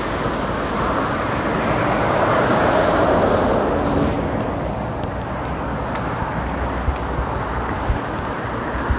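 Road traffic on a busy main road: a vehicle passes close, its noise swelling to a peak about three seconds in and then easing off into steady traffic noise.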